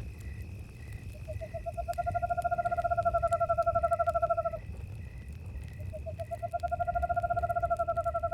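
An owl giving two long, even trilled calls of about three seconds each: the first begins about a second in, and the second about six seconds in. Under them run the regular chirping of crickets with a steady high insect drone, and the crackle and low rumble of a campfire.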